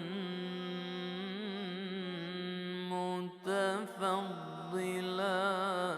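Male reciter chanting an Arabic Islamic ibtihal, drawing a word out in a long melismatic line: held notes at first, then quick wavering ornaments in the second half.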